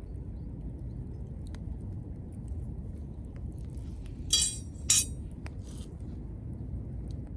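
Wood fire crackling with scattered small pops over a low steady rumble. A little past halfway, a metal cooker clinks twice, about half a second apart, with a bright ring.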